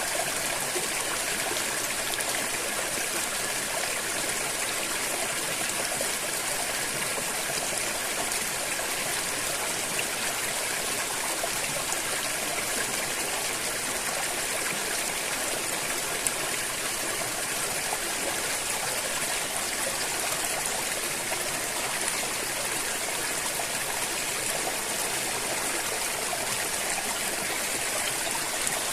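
River water flowing steadily, an even unbroken rush with a single brief tick about halfway through.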